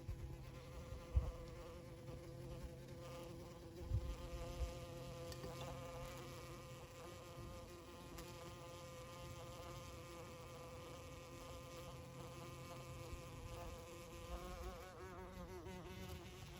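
A bee buzzing in flight: a steady wing hum whose pitch wavers near the end. A couple of brief low thumps sound about a second and about four seconds in.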